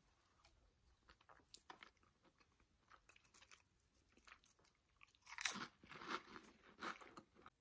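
A person eating beanie weenies with saltine crackers, close to the microphone. There is quiet chewing with faint small clicks at first, then several louder, crisp cracker crunches from about five seconds in.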